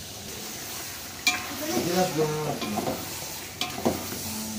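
Chicken pieces frying in masala in a large aluminium pot, stirred with a metal ladle: a steady sizzle, with sharp clinks of the ladle against the pot about a second in and again near the end.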